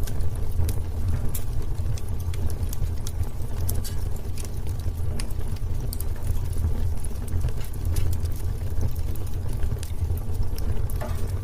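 Wood fire in a fireplace crackling, with many small, sharp pops at irregular intervals over a steady low rumble of the burning.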